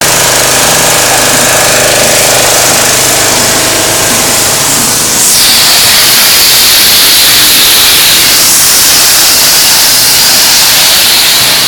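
Pressure washer running: a steady mechanical hum from its motor and pump. About five seconds in, a louder hissing jet of water takes over.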